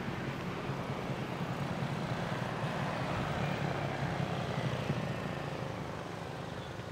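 Passenger train rolling away on the track: a steady rumble of wheels on rail that slowly fades as the last coach recedes.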